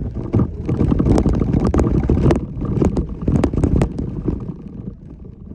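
Jeep Wrangler Unlimited Rubicon driving a rough trail: a steady low rumble with many quick knocks and rattles, easing off near the end.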